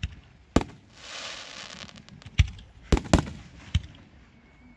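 Aerial firework shells bursting overhead: five sharp bangs, two of them close together, with a hiss lasting about a second and a half after the first bang.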